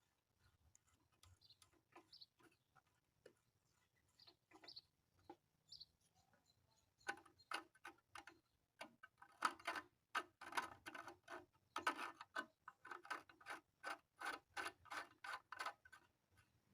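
Hand tools clicking on a small engine during reassembly: a few scattered clicks at first, then from about seven seconds in a quick, even run of sharp clicks at about three a second.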